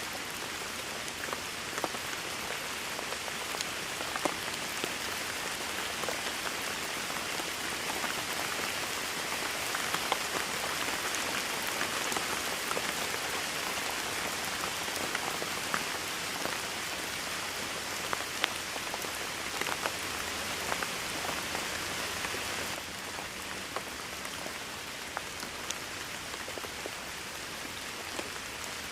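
Steady rain falling, a dense hiss with many individual drops ticking sharply on a surface close by. It gets a little quieter about three quarters of the way through.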